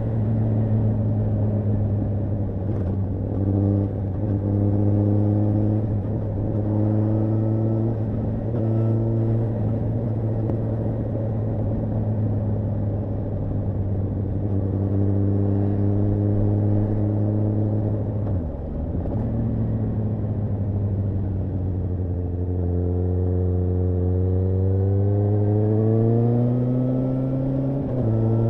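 Suzuki GSR750 inline-four motorcycle engine running on the road at steady, fairly low revs. The revs dip briefly about two-thirds of the way through, then climb steadily under acceleration over the last several seconds before falling back just at the end.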